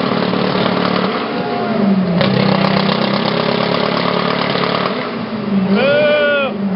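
Dodge Neon's four-cylinder engine revved and held at high revs through its exhaust for a loudness reading, the pitch dipping and climbing back a few times. A voice calls out briefly near the end.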